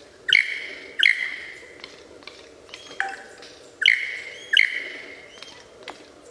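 A bird calling: loud, sharp calls in pairs about two-thirds of a second apart, one pair at the start and another a little past halfway, with fainter short calls in between.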